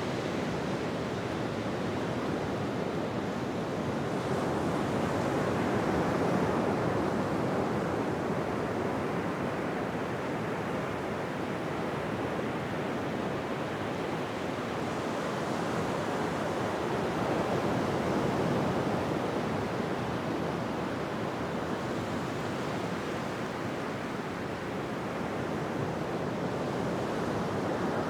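Ocean surf washing on a beach: a continuous rush of breaking waves that slowly swells louder and eases off again.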